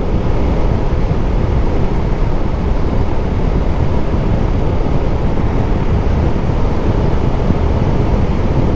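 Steady wind rush and road rumble on the microphone of a KTM 390 Duke motorcycle under way over a rough, broken road.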